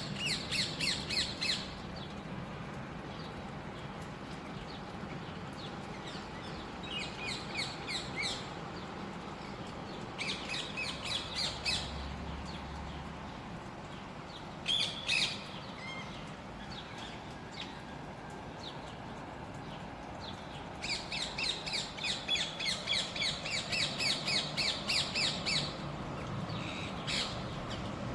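Birds calling in spring: several bouts of rapid, chattering high-pitched notes, the longest run near the end, over a steady background hum of outdoor noise.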